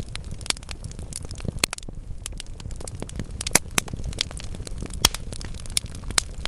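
Wood fire of burning logs crackling, with irregular sharp pops over a steady low rumble of flame; the loudest pops come about halfway through and about two-thirds of the way in.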